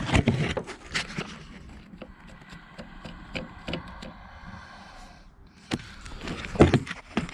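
Irregular knocks, clicks and scraping, loudest in a cluster at the start and another near the end, with lighter ticks in between.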